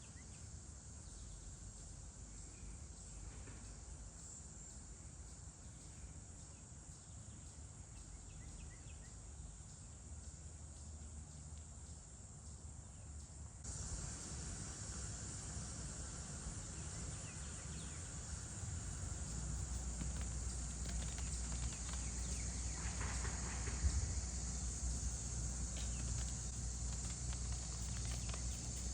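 Outdoor summer ambience: a steady, high-pitched chorus of insects, with a low rumble underneath. About halfway through, the insect sound steps up suddenly and stays louder. There is a single short tap near the end.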